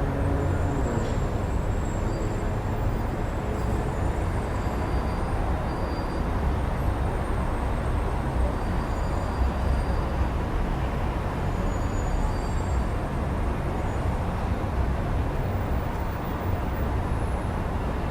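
Steady rumble of city road traffic heard through an open window, with faint short high squeaks now and then.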